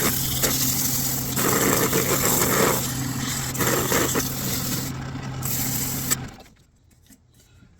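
Wood lathe running with sandpaper held against the spinning wooden workpiece: a steady motor hum under a rough hiss that rises and falls. It cuts off about six seconds in.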